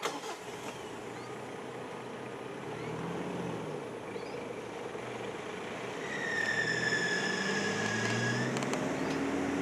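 Car engines running on the road, with one rising in pitch as it speeds up in the last few seconds. About six seconds in, a high, steady whine sounds for about two seconds, falling slightly in pitch.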